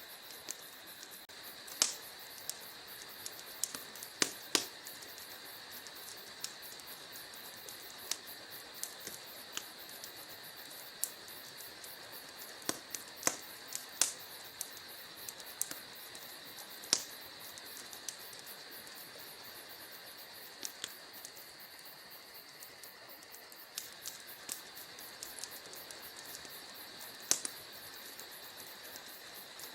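Wood fire crackling, with irregular sharp pops and snaps over a steady high hiss.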